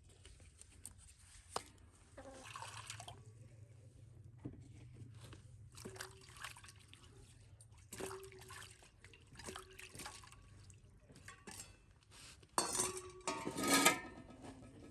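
Water being poured and splashing, with scattered light knocks and clicks. The loudest stretch of pouring comes near the end.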